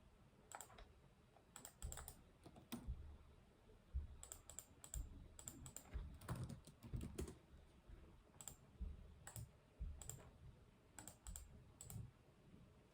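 Computer keyboard being typed on: faint, unhurried keystrokes in short irregular runs with pauses between them, each key giving a light click with a soft thud as it bottoms out.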